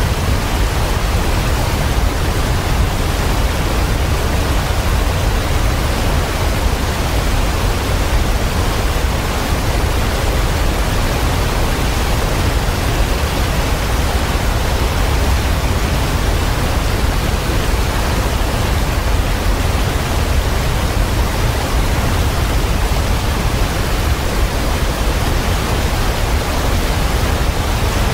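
Waterfall pouring steadily: an even rushing noise over a deep low rumble, with no birds or other events standing out.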